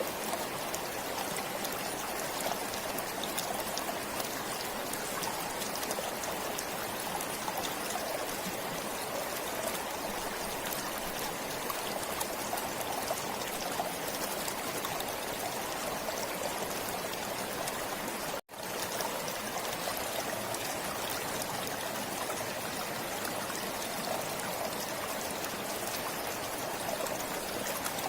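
Forest stream flowing, a steady rush of water broken by a split-second gap about two-thirds of the way through.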